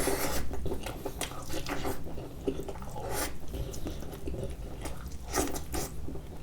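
Close-miked chewing and biting of turkey wings coated in spicy sauce, with irregular mouth smacks and clicks.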